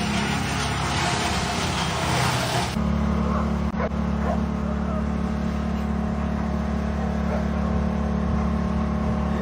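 A vehicle engine drones steadily and low. Before it, a loud hissing noise cuts off abruptly about three seconds in.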